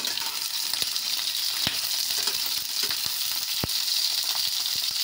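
Pointed gourd (parwal) pieces sizzling in hot oil in a kadhai, frying on a low flame towards golden, with a steady hiss. A steel spatula stirs them and clicks against the pan a few times.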